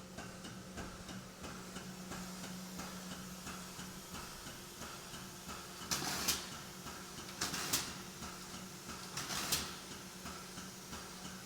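Hydraulic testing machine running with a steady hum and fast, faint ticking. Three short hisses come about halfway through, each roughly half a second long and about a second and a half apart.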